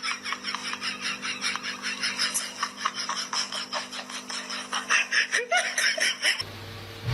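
High-pitched laughter in a fast run of short pulses, about five a second, over a faint steady hum. It cuts off abruptly near the end.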